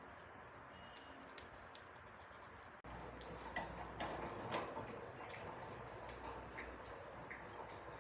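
Budgies pecking and nibbling at a piece of apple: a run of small, irregular beak clicks and taps.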